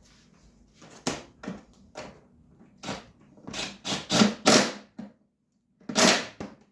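Irregular knocks and clatter of parts being handled and fitted on a dirt bike during reassembly, about nine sharp strokes, loudest a little past the middle.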